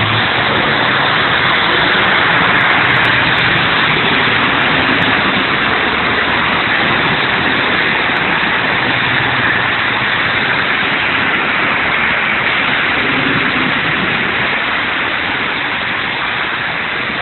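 Steady rushing noise of heavy rain, easing slightly toward the end.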